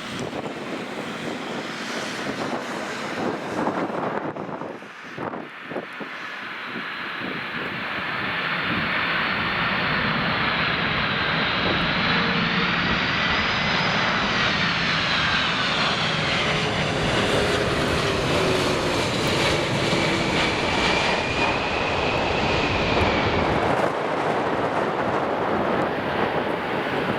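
Boeing 747's four turbofan engines on a landing approach: a steady jet rumble that grows louder about eight seconds in, with a high whine above it that slowly wavers in pitch.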